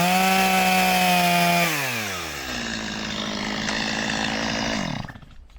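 Chainsaw at full throttle cutting through the last wood at the back of a bore cut. It drops back to a steady idle about two seconds in, then cuts off about five seconds in.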